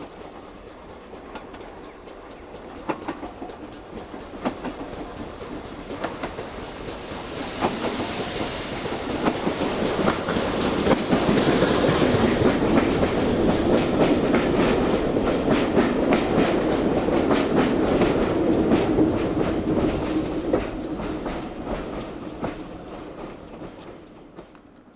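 Steam train passing close by. It grows louder over several seconds, its wheels clattering over the rail joints for about ten seconds, then fades away near the end.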